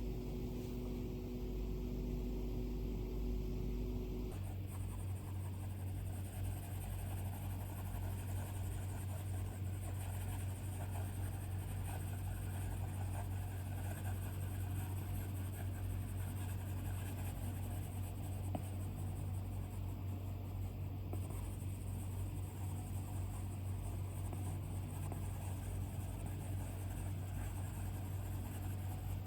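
Steady low electrical or room hum that shifts to a lower, steadier drone about four seconds in, under faint scratching of an Apple Pencil stylus drawing on an iPad screen.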